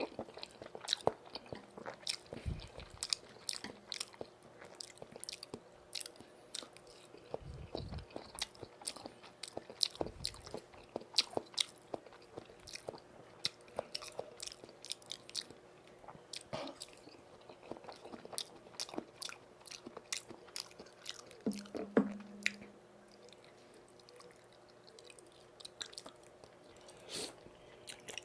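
Close-miked chewing of tteokbokki and saucy pan-fried jeon, with a dense run of sharp, wet mouth clicks and smacks and a few soft low thuds. A short low hum comes about 22 seconds in.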